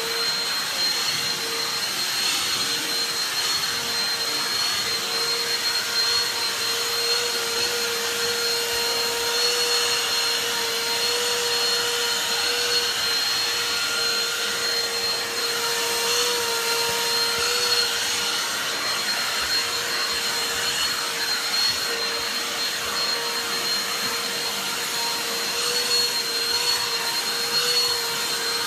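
Vacuum cleaner running steadily while being used to groom a cat's fur: an even rushing of air with a steady motor whine whose pitch wavers briefly a few times.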